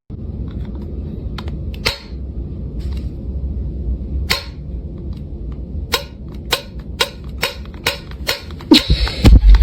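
A series of sharp, irregular clicks and knocks, about a dozen, over a steady low rumble, growing louder near the end.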